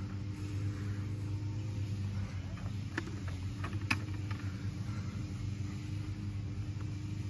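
A motor running steadily with a low, even hum, and a few light clicks or knocks about halfway through.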